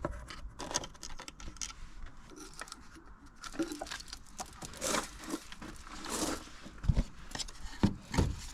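Hands working on engine parts: scattered clicks, rustling and scraping as hoses and fittings are pulled and handled, with two dull knocks near the end.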